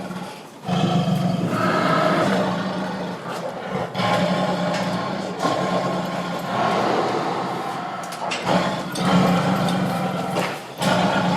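Tiger roaring and growling in a run of long, rough, loud roars, each lasting a few seconds, with short breaks between them.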